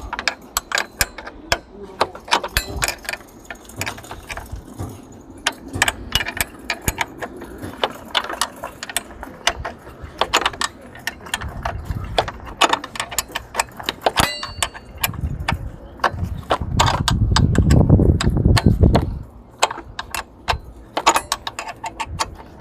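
Hand tools working on a car door's bolts: a ratchet wrench clicking and metal tools clinking in quick, irregular clicks, with a louder rumbling scrape for a few seconds past the middle.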